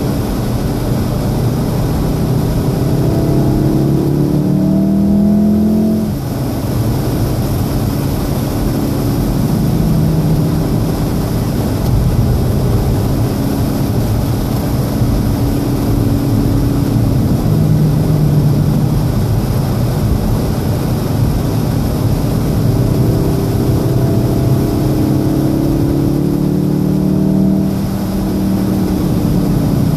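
2014 VW Golf VII R's turbocharged 2.0-litre four-cylinder engine accelerating, heard inside the cabin over heavy tyre and road-spray noise from the soaked track. The engine note climbs and drops at an upshift about six seconds in, runs steadier, then climbs again and drops at another upshift near the end.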